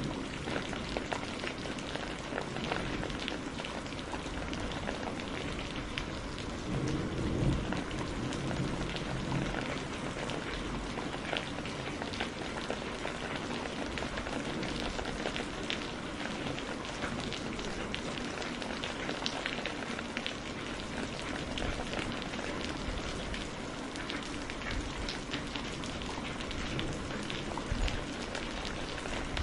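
Steady rain falling, with a low rumble of thunder swelling about seven seconds in.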